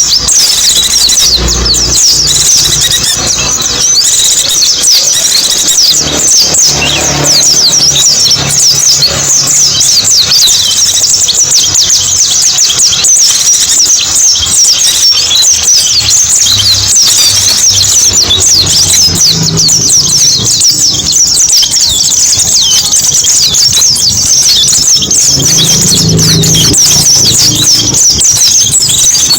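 Pleci buxtoni white-eye twittering: a loud, unbroken stream of rapid, high, thin chirps.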